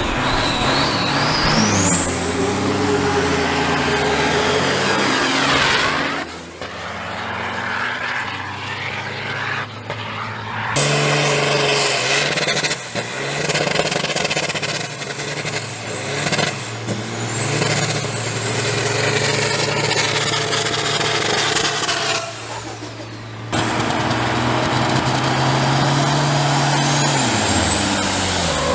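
Diesel semi trucks accelerating hard down a drag strip, their engines climbing in pitch and dropping back with each gear change, with a high turbo whistle rising steeply in the first few seconds. The sound cuts abruptly to another run three times.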